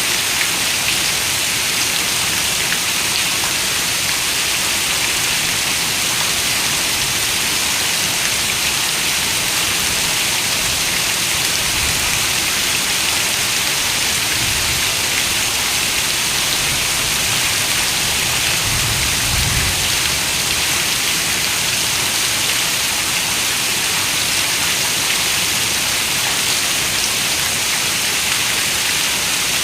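Heavy rain falling on a window glass, a steady, even hiss of dense raindrops with no break. A few soft low rumbles come and go in the middle.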